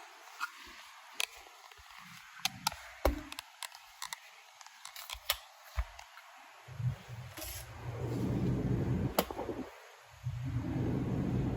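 New temperature controller's packaging being opened and handled: scattered sharp clicks and crinkles. About seven seconds in a steady low hum comes in, cuts out briefly near the end, then returns.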